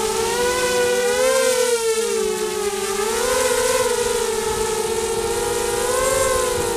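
Spedix 250 FPV quadcopter's electric motors and propellers whining, several close tones wavering up and down together as the throttle changes, over a steady hiss of rushing air.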